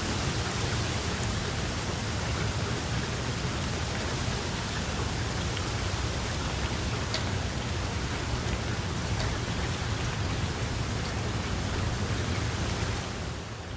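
Steady rain falling, an even hiss with a few distinct drops standing out. Near the end it turns softer and less hissy.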